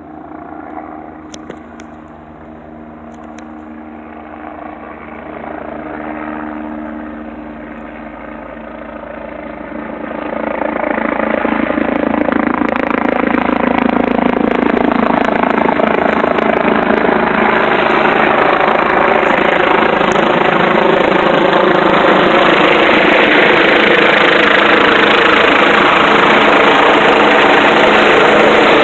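Leonardo AW109SP twin-turbine medical helicopter approaching to land: rotor and turbine noise grows sharply louder about ten seconds in, then holds loud and steady.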